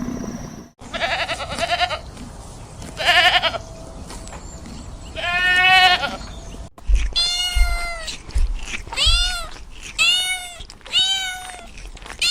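Goats bleating: two short quavering bleats, then a longer bleat, then a run of short rising-and-falling bleats about one a second.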